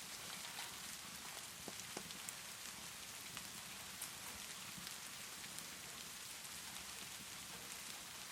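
Steady rainfall hissing evenly, with scattered small sharp pops and crackles from a fireplace fire over it.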